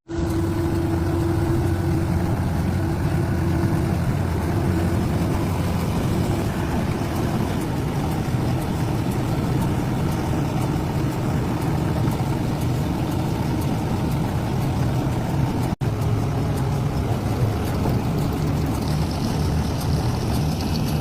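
Tractor engine running steadily under load while working a baler in the field. The drone breaks off for an instant about three-quarters of the way through.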